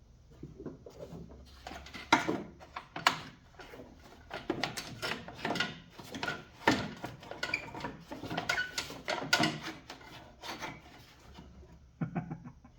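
Hands-on work on a lawn tractor: irregular knocks, clanks and scraping as parts are handled and worked, with no steady engine sound.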